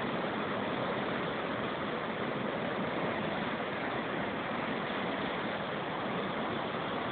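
Steady, even rushing noise of typhoon wind and rough sea at the shore, with no break or swell in level.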